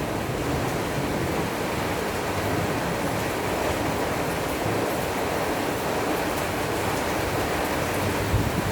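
Heavy rain falling steadily in a storm downpour, an even hiss and patter with no letup.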